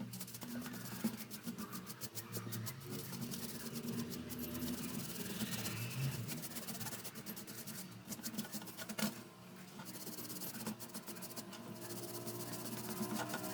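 Rubbing and scratching of hands and a cloth or brush scrubbing an electric fan's parts, with many small irregular clicks.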